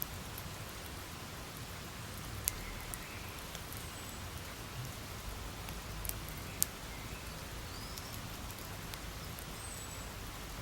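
Campfire burning with a steady crackling hiss and a few sharp pops from the burning wood, the loudest about two and a half seconds in and twice more a little after six seconds in.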